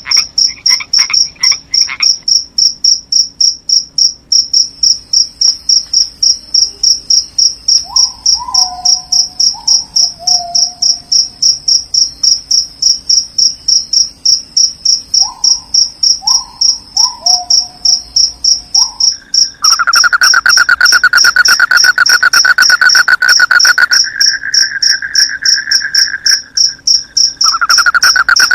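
Crickets chirping in a fast, steady pulsing rhythm, with a few short frog croaks in small clusters. About two-thirds of the way through, a louder, lower continuous trill joins and becomes the loudest sound; it breaks off for a few seconds, then starts again near the end.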